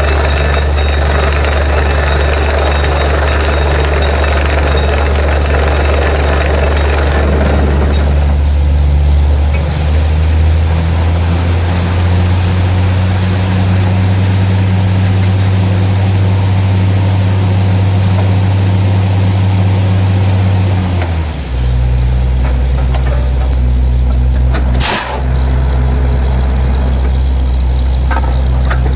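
Borewell drilling rig's diesel engine running loud and steady, its pitch shifting in steps a few times. A rushing noise over it stops about eight seconds in, and a short sharp hiss comes about four seconds from the end.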